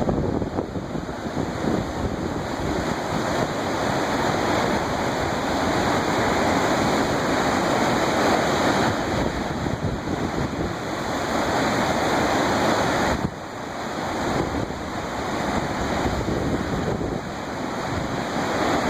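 Waves on Lake Ontario churning in strong wind, with wind buffeting the microphone; a steady rushing noise that swells and eases, dropping briefly about thirteen seconds in.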